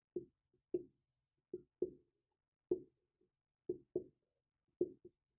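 Writing by hand on a board: a series of about nine short, sharp knocks at irregular intervals, with faint high scratching between them.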